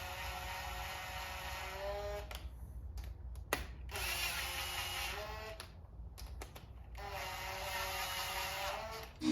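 Handheld electric power tool running in three spells of about two seconds each, a steady whine that rises slightly in pitch near the end of each spell, with small clicks of tool and parts in the pauses between.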